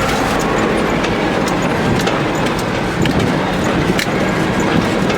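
ZIL-131 army truck's V8 engine running with a low drone, mixed with a steady clatter and rattling and scattered sharp clicks and knocks.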